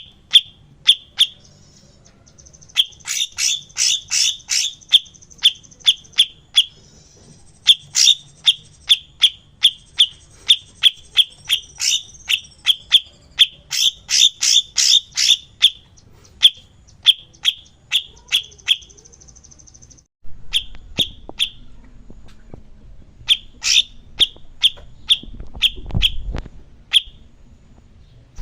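Cucak cungkok singing: loud, sharp chirps repeated in quick runs of about two to four a second, broken by short pauses, with thin buzzy trills in between. About two-thirds of the way through the recording briefly cuts out and resumes with a low rumble underneath.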